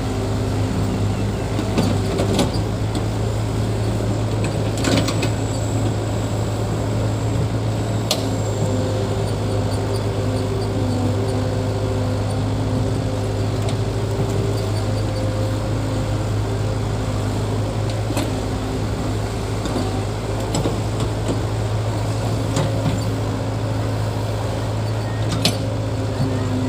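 Diesel engine of heavy earthmoving equipment running steadily at a constant speed, with a few sharp clicks or knocks now and then.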